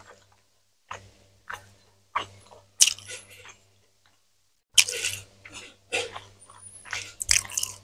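Close-miked chewing of fried chicken: a string of wet bites and mouth smacks, pausing for about a second around the middle.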